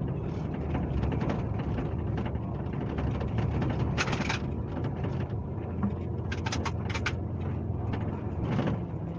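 Scania K370C coach's six-cylinder diesel engine running steadily, heard from on board the moving bus. A few short hisses cut through, the strongest about four seconds in and a quick cluster around six to seven seconds.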